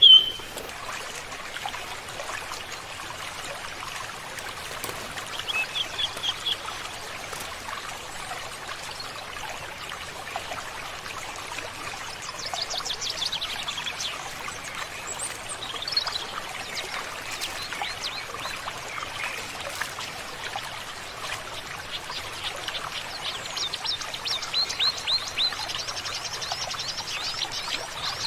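Forest birds chirping and trilling over a steady hiss like running water. Quick runs of trills come in the middle and grow busier near the end. A brief loud high sound comes right at the start.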